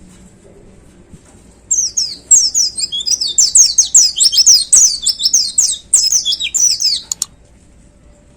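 A white-eye (pleci) singing a loud, rapid, high-pitched twittering burst lasting about five seconds, starting almost two seconds in and breaking off abruptly: the fast 'shooting' song of a white-eye in full voice.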